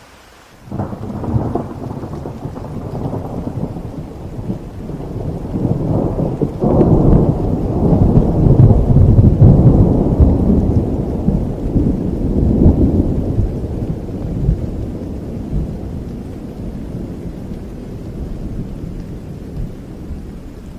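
Thunder rumbling through rain: a crack about a second in and a heavier peal around six seconds in, swelling to a loud rumble and slowly fading away.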